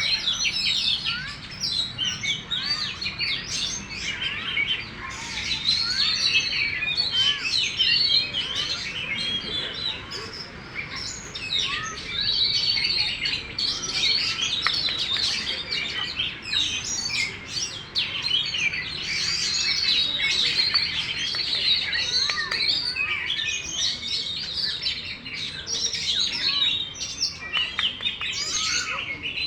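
Oriental magpie-robin (kacer) singing a long, unbroken run of quick, varied chirps and whistles, high-pitched and densely packed.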